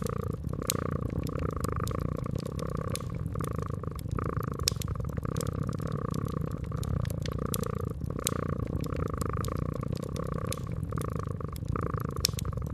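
Domestic cat purring steadily in a pulsing rhythm of about two cycles a second, with a wood fire crackling in scattered sharp pops.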